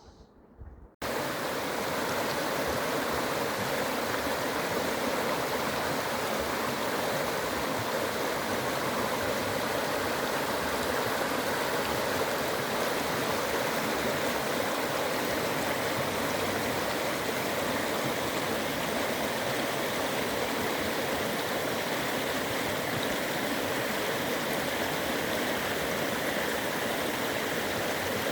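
Fast mountain creek rushing steadily, starting abruptly about a second in.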